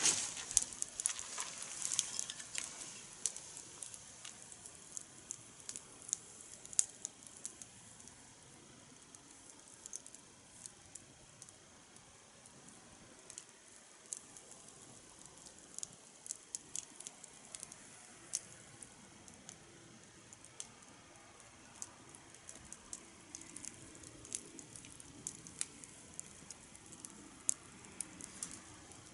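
Wood fire burning in a fire pit, crackling with sharp, irregular pops. The pops come thickest in the first few seconds, then continue sparser over a soft hiss.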